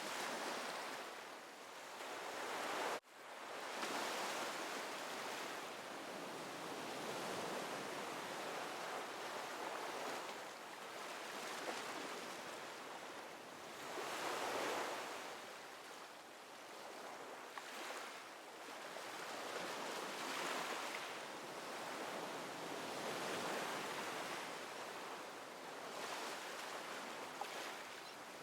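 Ocean waves breaking and washing in, the surf swelling and ebbing every few seconds. There is a brief sudden gap in the sound about three seconds in.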